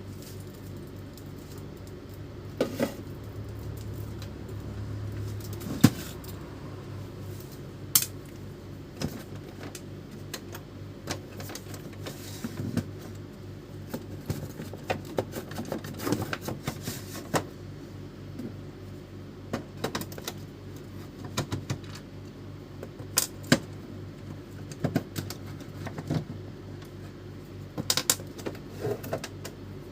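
Irregular clicks, taps and small metallic clinks of hand tools and screws on the plastic casing of an Epson L310 inkjet printer as it is being taken apart.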